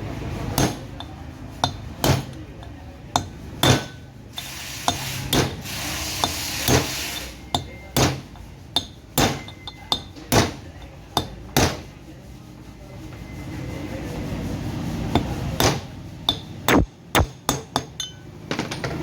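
Hammer blows on metal during a car wheel bearing replacement, each strike sharp with a short ring. They come irregularly, about one a second, with a lull in the middle and a quicker run of strikes near the end.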